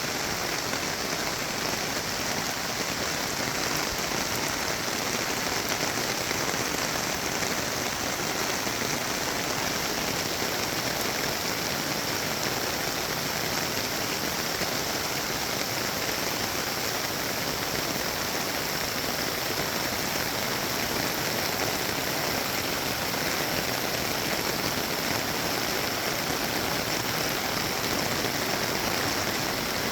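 Steady, even rush of water from a creek in flood, overflowing its banks.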